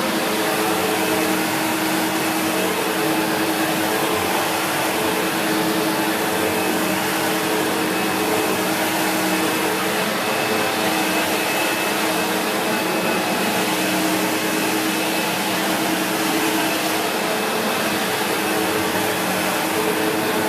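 SEBO X4 Extra upright vacuum cleaner running steadily while vacuuming, a constant motor hum and airflow rush with a faint high whine.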